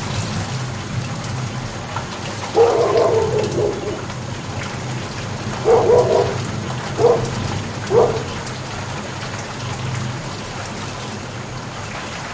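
Steady rain falling, an even hiss throughout. Four short pitched calls stand out over it: one longer call, then three brief ones a second or so apart, the loudest sounds here.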